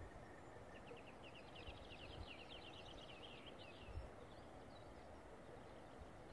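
Faint songbird song: a quick run of high, down-slurred notes lasting about three seconds, over a quiet outdoor background.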